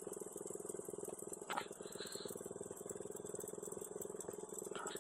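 110cc mini dirt bike's single-cylinder four-stroke engine idling steadily, with two short high chirps, one about a second and a half in and one near the end.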